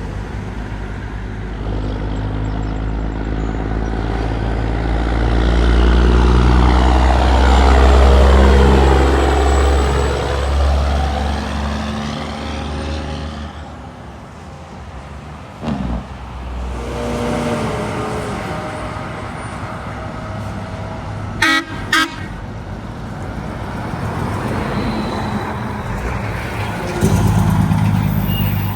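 Heavy trucks passing on a highway: an engine drone that swells and then fades as a truck goes by, with tire noise. About two-thirds through, a horn gives two short toots.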